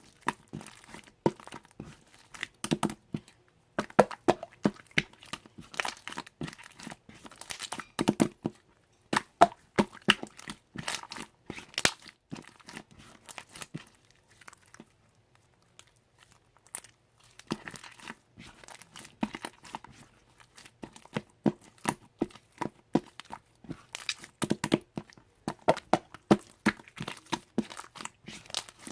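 Slime being squeezed, poked and stretched by hand, making rapid, irregular clicking and popping, with a pause of a few seconds about halfway through.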